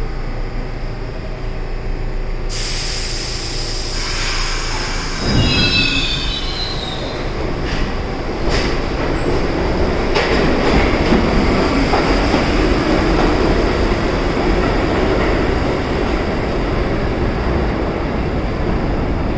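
New York City subway train on the rails, its wheels squealing about five seconds in, with a few sharp clicks a few seconds later and a rumble that grows louder.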